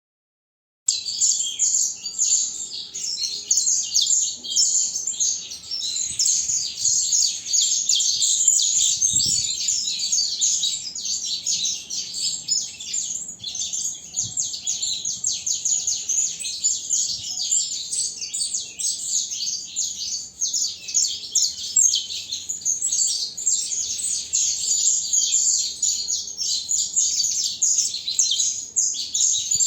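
Young songbird singing continuously in a rapid, dense run of high chirping notes, starting about a second in.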